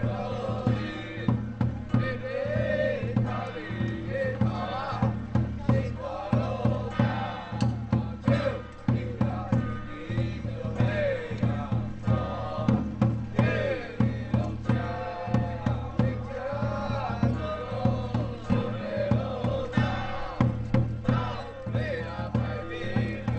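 Ritual music of a Taiwanese folk-temple ceremony, with drums beating a steady rhythm under a wavering melody line, sung or played.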